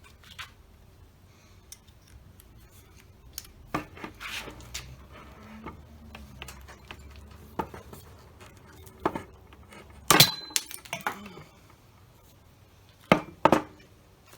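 Scattered metal clicks and clinks of hand tools working on a wood screw as its head is cut off. A loud sharp snap with a brief high ring comes about ten seconds in, and two more hard knocks follow near the end.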